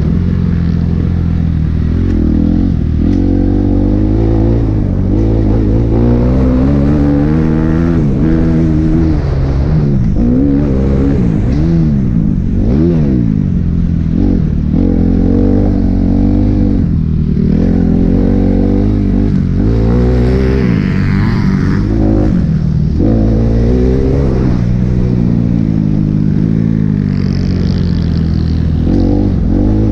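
Kawasaki KX250F four-stroke single-cylinder motocross engine, heard close on board, revving up and dropping back over and over as the rider accelerates, shifts and rolls off.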